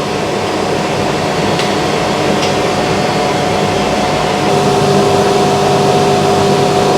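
Steam locomotive being readied for its run, giving a steady rushing hiss with a steady whine through it. A second, lower tone joins a little past halfway and the sound grows slightly louder.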